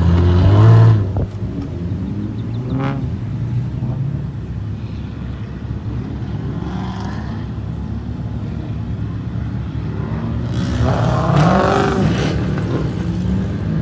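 Car engines: a steady low engine drone throughout, with other cars revving loudly, a short burst right at the start and a longer rev that rises and falls about eleven seconds in.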